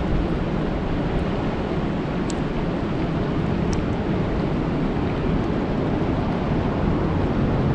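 Steady rain falling on a lake, a dense, even rushing hiss heavy in the low end, with a couple of faint high ticks of drops.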